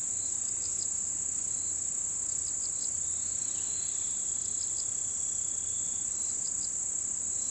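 Chorus of autumn insects (crickets) shrilling steadily on one high pitch, with short high chirps in twos and threes about every two seconds.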